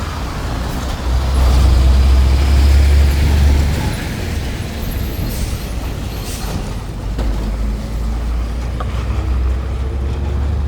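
Motorbike engine running while riding, with wind buffeting the microphone as a heavy low rumble that is strongest from about a second in to about four seconds in.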